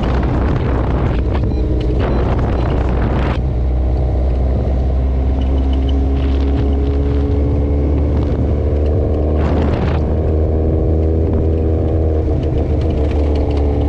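Motorcycle engine running steadily under way, its note drifting slowly up and down. Wind noise rushes over it twice, about a second in for a couple of seconds and again near ten seconds in.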